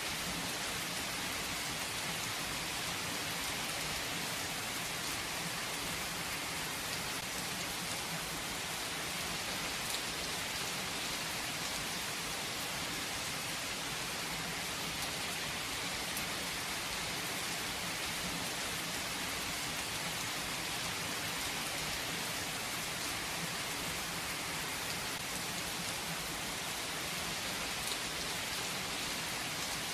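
Steady rain falling on a hard surface, an even hiss with occasional individual drops ticking through it.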